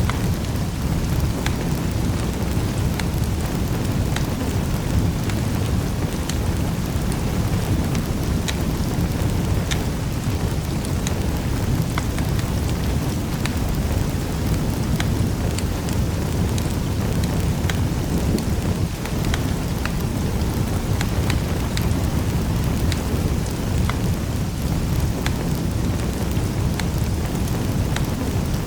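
Wood fire in a fireplace burning, with a steady low rumble and scattered sharp crackles and pops a few times a second.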